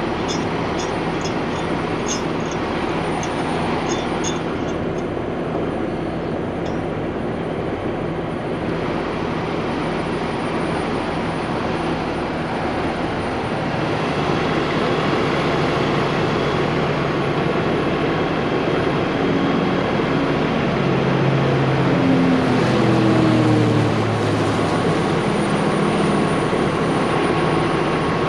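Heavy diesel engine running steadily at a work site, growing a little louder partway through, with short stepped changes in pitch near the end.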